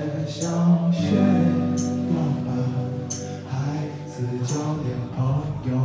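Live band playing a pop-rock song, with held notes and repeated cymbal hits.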